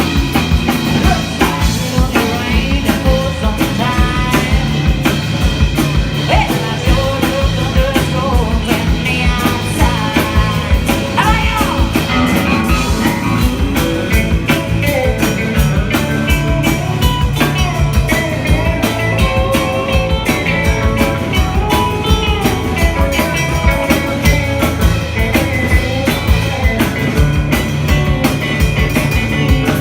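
Live band music: a song played with a steady drum beat and guitar.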